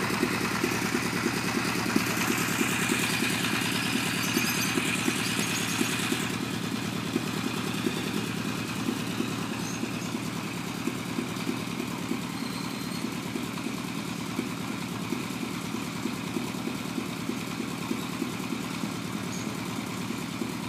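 Honda CB900F II air-cooled inline-four engine idling steadily through its exhaust. A higher hiss over it stops about six seconds in.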